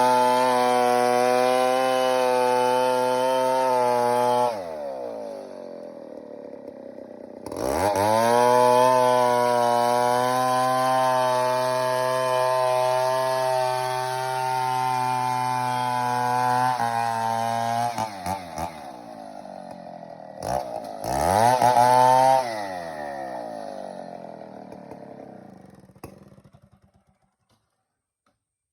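Stihl MS 070 two-stroke chainsaw held at full throttle, dropping to idle about four seconds in, then revving back up and holding high for about ten seconds. It falls off, is blipped twice more, then winds down and stops near the end.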